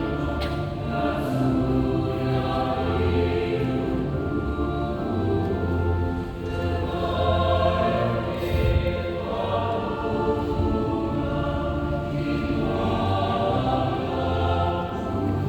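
A choir singing in several parts, holding long sustained chords that change every second or two.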